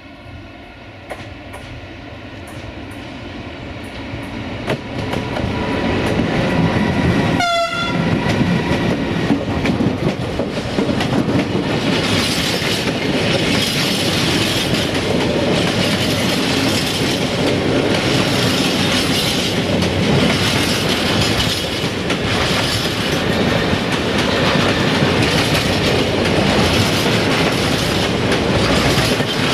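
A freight train hauled by a Siemens Smartron electric locomotive approaching and then passing close by. A steady horn-like tone sounds through the first seven seconds and cuts off. The rolling noise grows loud, then stays a steady rumble with wheel clatter as loaded tank wagons go past.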